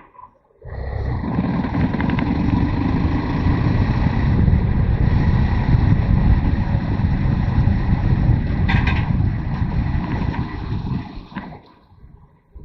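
Motorcycle underway: engine running beneath loud wind noise buffeting the microphone. It comes in about a second in and dies away near the end.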